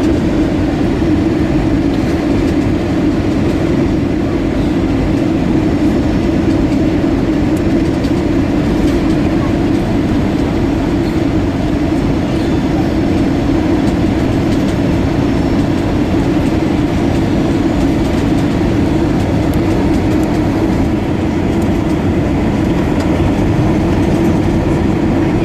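Steady cabin noise inside an Airbus A320-232, with its IAE V2500 engines running and a loud, even rumble from the airframe.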